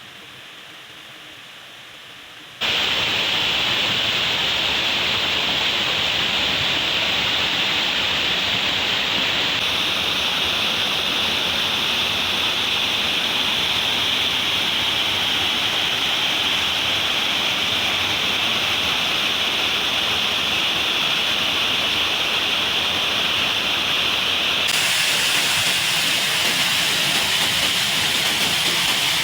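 Waterfall water rushing steadily and loudly, close to the microphone. It starts abruptly about two and a half seconds in, and its tone shifts slightly twice.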